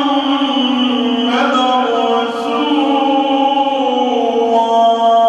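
A muezzin's solo male voice chanting the Friday adhan (Islamic call to prayer), drawing out long melismatic held notes that step from one pitch to another.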